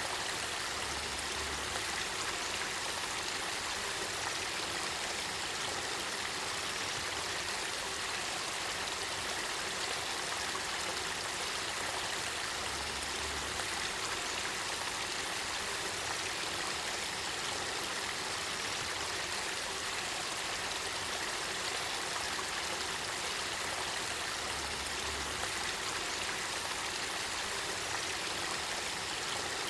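Spring-fed river water of the Kakita River flowing steadily, an even, unbroken rush.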